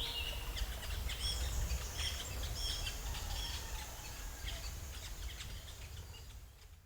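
Ambience of many small birds chirping, with short high calls overlapping over a low rumble. The whole sound fades out near the end.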